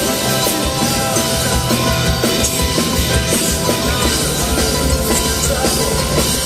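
Live rock band playing an instrumental passage, drum kit prominent under sustained guitar and keyboard tones.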